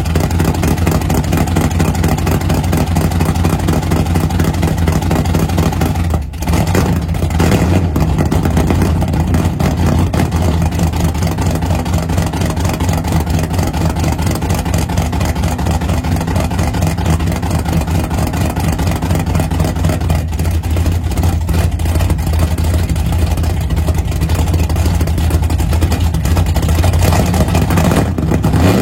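A vehicle engine running steadily at idle, a low, even drone with a short drop in level about six seconds in.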